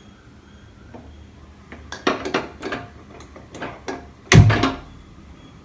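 Cookware being handled on a stove: a string of light knocks and clinks, then one loud thunk about four and a half seconds in, as a pan is set down.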